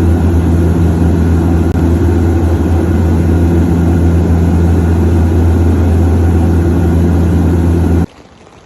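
A loud engine running steadily with a deep, even hum, cutting off abruptly about eight seconds in, leaving a faint patter.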